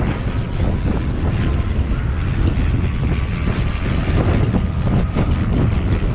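Wind buffeting the microphone during an electric-bike ride: a loud, steady low rumble.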